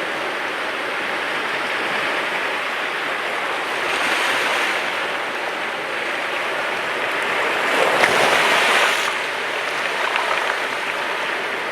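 Mediterranean sea waves breaking and washing on the shore: a continuous rush of surf that swells twice, about four seconds in and, louder, about eight seconds in.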